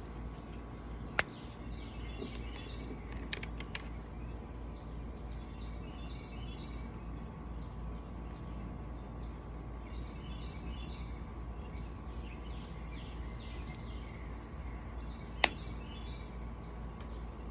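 Birds chirping again and again over a steady low hum, with a click about a second in and a sharper, louder click near the end.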